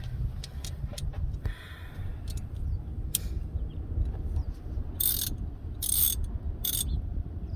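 A wrench working a bolt on the fuel pump of a 1970 GMC pickup: a few sharp metal clicks, then three short scraping, ratcheting bursts in the second half, over a low steady rumble.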